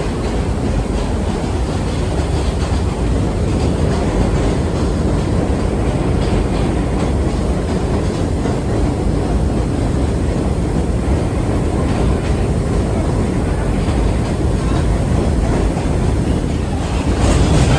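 Vintage 1930s R1-9 subway car running along the line, heard from inside the car: a steady rumble of wheels and motors with occasional clicks over rail joints, growing louder near the end.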